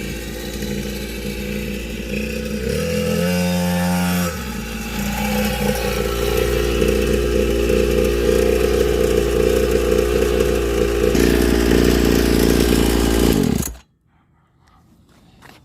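Small two-stroke engine of a budget dirt bike running hard, its pitch shifting about three seconds in, then cutting off suddenly near the end.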